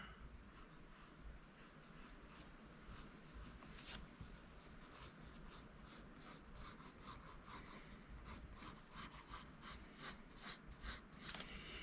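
Pencil drawing on paper: faint, quick short strokes, coming more thickly over the last few seconds.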